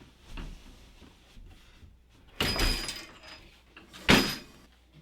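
Metal-framed folding table being handled and set down: two heavy knocks with a brief metallic ring, about two and a half seconds and four seconds in, with a few lighter knocks between.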